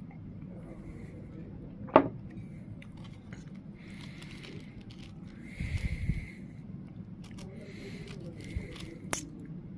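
Handling of the wrap between bites: scraping and rustling, with a sharp tap about two seconds in, a low bump near the middle and another tap near the end.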